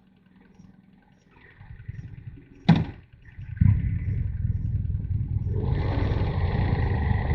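Motorcycle engine running quietly at first, then picking up; a single sharp crack sounds near the three-second mark. From about three and a half seconds the engine pulls hard and steadily, and a broad hiss joins it in the last two seconds.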